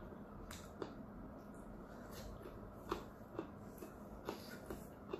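A person chewing a kimchi dumpling: soft, irregular wet mouth clicks, about one or two a second, over a faint steady hum.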